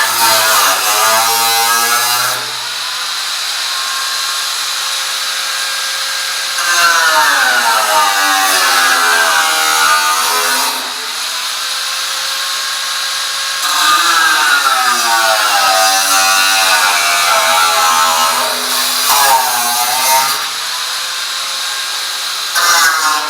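Handheld electric power tool cutting in four bouts, its motor pitch sagging under load and rising again, with a quieter steady whine between the cuts.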